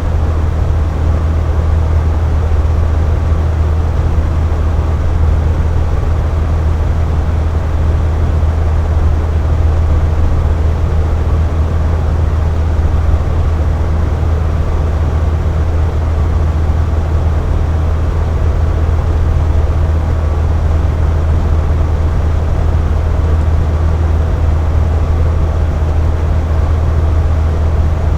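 Box fan running steadily: an even rush of moving air over a strong low hum, with faint steady tones in the middle, unchanging throughout.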